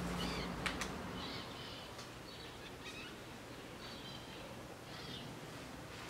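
Small birds chirping in short calls every second or so, with two sharp clicks under a second in.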